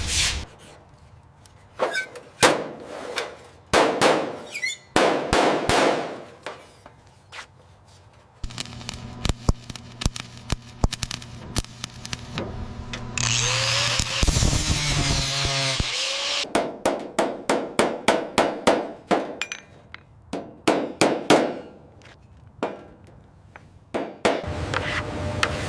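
Workshop tool sounds: scattered clicks and knocks, then a few seconds of hissing about halfway through, followed by a quick run of taps at about four or five a second.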